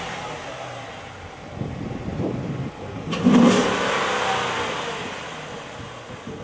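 Car engine revved hard: a sharp burst of revs about three seconds in that dies away slowly as the engine falls back, after an uneven rumble and the fading tail of an earlier rev.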